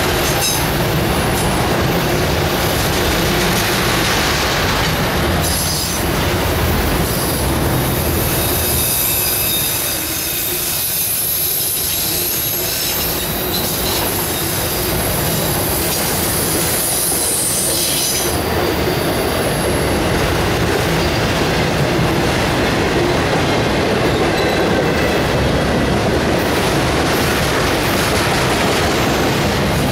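Enclosed autorack freight cars rolling past close by: a steady, loud rumble of steel wheels on rail, with high-pitched wheel squeal from about six seconds in to about eighteen seconds.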